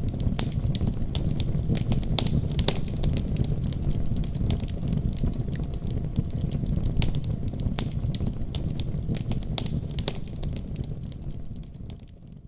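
Wood fire burning in a fireplace: a steady low rumble of flames with frequent sharp crackles and pops at irregular intervals. It fades out near the end.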